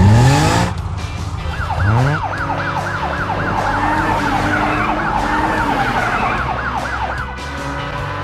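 Cartoon sound effects: a vehicle engine revving up twice, then a fast warbling emergency-vehicle siren, about three to four wails a second, which stops shortly before the end, over background music.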